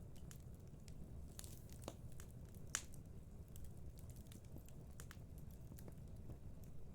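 Wood fire burning in a fireplace: a low, steady rumble of the flames with scattered crackles and small pops, one sharper pop a little under three seconds in.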